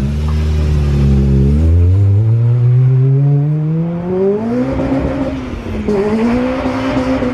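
Car engine accelerating hard: its note holds low for a moment, then climbs steadily in pitch for about three seconds, sags briefly around six seconds in, and climbs again.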